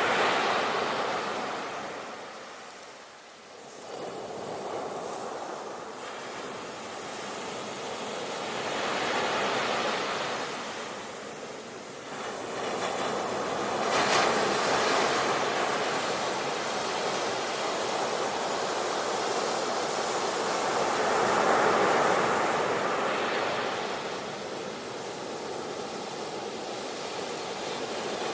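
Sea waves breaking and washing ashore, the surf swelling and ebbing in slow surges every several seconds.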